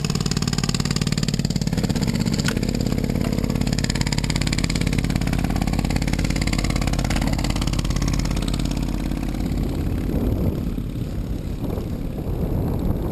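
A motor vehicle's engine running steadily close by, which fades about ten seconds in and leaves a rougher rushing noise, most likely wind on the microphone.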